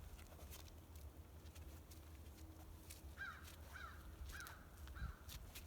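A bird calling faintly four times in quick succession, about halfway through; each call is a short falling note. Under it are a low steady rumble and a few small clicks.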